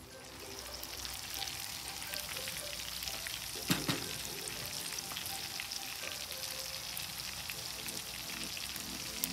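Chicken wings frying in oil in a large pan, a steady sizzling hiss full of small crackles and spits. One sharp click a little under four seconds in.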